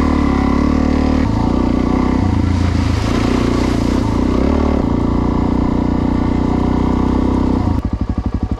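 Motorcycle engine running under way, its note stepping to a new pitch a few times. Near the end it drops into a pulsing, throbbing beat as the throttle comes off.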